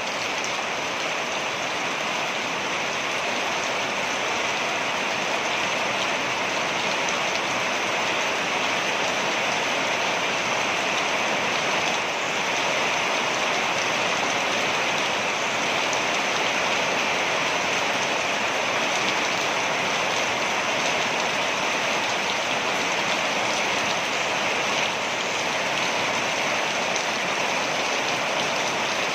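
Waterfall: water falling steadily, an even, unbroken rushing hiss.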